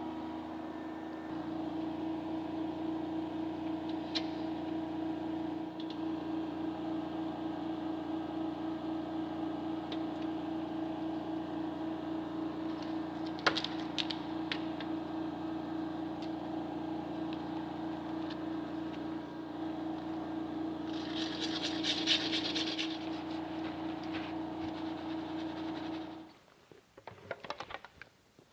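A workshop machine runs with a steady hum, with a few sharp clicks and a short hiss near the end, then cuts off abruptly.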